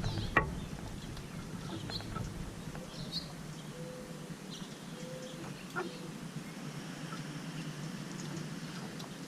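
Small birds giving scattered short, high chirps, with a single sharp tap under half a second in.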